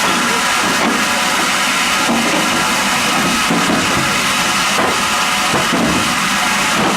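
MEBOR horizontal band sawmill running: a steady machine noise with a hiss, holding an even level throughout.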